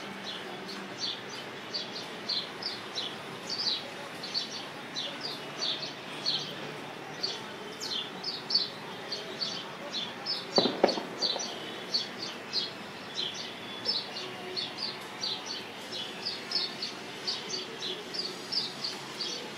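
Small birds chirping steadily, a continuous run of short, high chirps about two or three a second over steady background noise. About halfway through there is a single louder thump.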